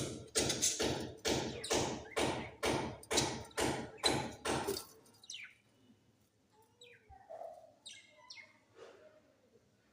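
A steady run of knocks, about two or three a second, which stops about five seconds in. Faint, short, falling chirps of budgerigars follow.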